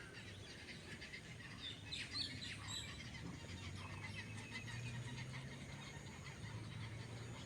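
Many small birds chirping, a faint chorus of short high chirps that is busiest about two to three seconds in. A faint steady low hum sits underneath.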